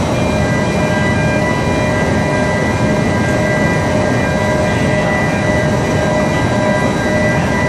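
Industrial aluminum melting furnace running: a loud, steady rumbling roar with several faint steady whining tones over it.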